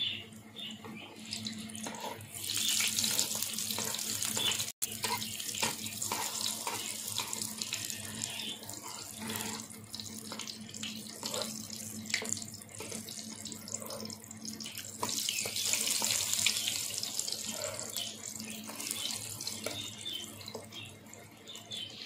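Pancakes shallow-frying in hot oil in a black pan, a steady sizzle that swells louder twice, a couple of seconds in and again past the middle. Short clicks and scrapes come from a fork working the pancakes in the pan.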